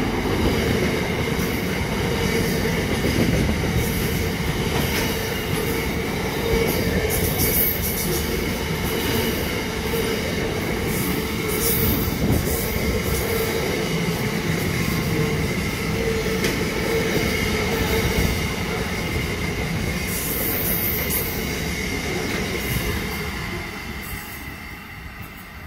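Container freight wagons rolling past close by, a steady rumble of wheels on rail with a steady high squeal from the wheels. The sound fades off near the end as the last wagon draws away.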